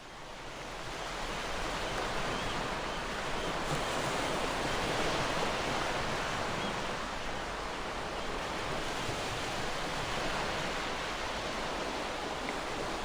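Gentle ocean waves washing ashore: a steady rush of surf that fades in over the first couple of seconds and then holds even.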